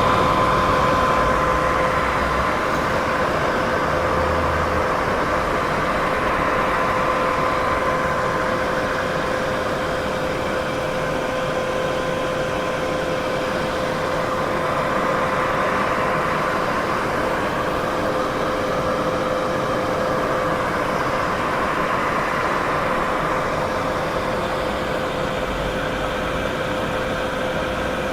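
Steady white noise for sleep: an even, unbroken hiss with a faint steady hum underneath.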